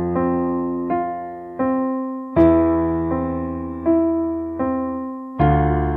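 Background music: a slow piano-style keyboard playing held chords, with a new note struck roughly every three-quarters of a second and a fuller chord about every three seconds, each fading away before the next.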